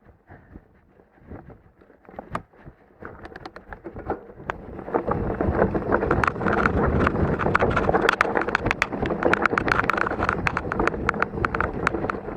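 Mountain bike rattling and clattering down a rocky, loose trail: sharp knocks and rattles from the bike as it hits stones, with tyre crunch and wind noise. It starts quiet and becomes much louder and busier from about five seconds in, as the bike picks up speed over the rock section.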